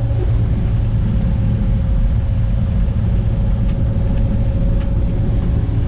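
Kubota excavator's diesel engine running steadily: a low rumble with a constant hum above it.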